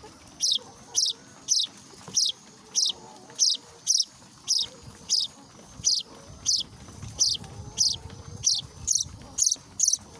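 Four-day-old weaver bird chicks chirping: short, high, downward-sliding peeps repeated steadily about twice a second.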